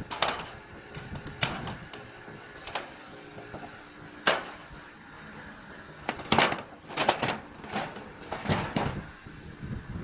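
Irregular knocks and clatters from work on a tiled roof, spaced unevenly, with one sharp knock about four seconds in and a busier run of them near the end.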